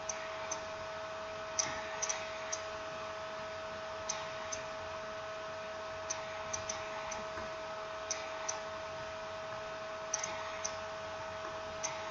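Short sharp clicks in small groups of one to three, recurring about every two seconds, over a steady electrical hum.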